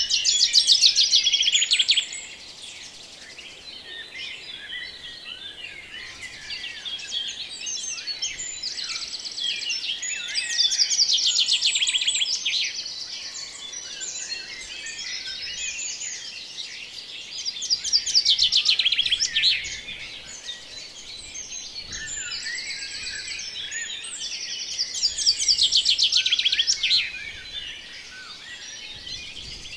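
Birdsong chorus of many small songbirds chirping, with one louder bird repeating a fast trilled song phrase about every seven to eight seconds.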